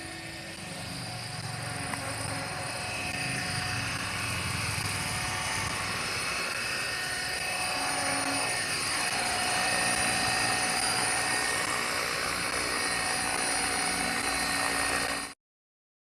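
Align T-Rex 500 electric RC helicopter running: a steady whine of several high tones from the motor and gears over the buzz of the rotor. The sound cuts off suddenly near the end.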